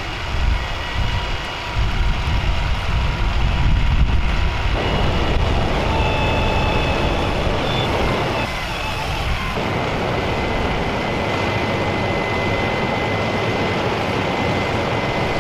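Truck engine running steadily, with a faint high steady whine over it.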